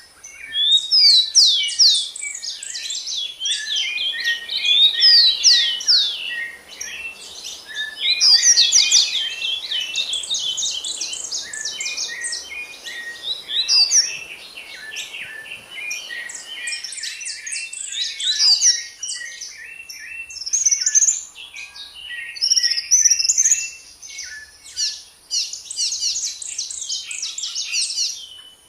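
Several songbirds singing and chirping at once, a dense chorus of quick, overlapping high notes and sweeping trills that rises and falls in bursts.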